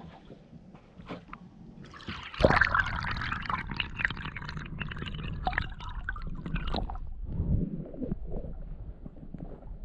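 Water splashing and gurgling beside a small rowing boat. It starts suddenly about two seconds in, stays busy for around five seconds, then fades to quieter sloshing.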